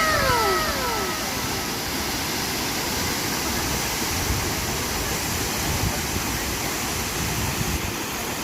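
Steady roar of Multnomah Falls' water crashing down, an even rushing hiss with a low rumble. Near the start a short voice-like call slides down in pitch.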